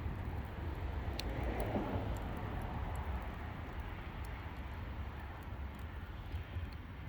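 Wood fire burning, with scattered small crackles and pops over a steady low rumble; the fire swells briefly about two seconds in.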